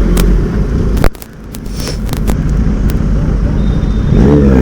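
Benelli TRK 502 motorcycle engine running low in traffic. A sharp click comes about a second in, then the engine sound drops and builds back up over the next few seconds.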